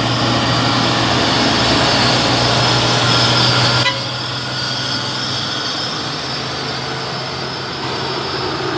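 Heavy truck engine running hard under load with a deep, steady drone, its sound dropping off suddenly about four seconds in and then carrying on more quietly.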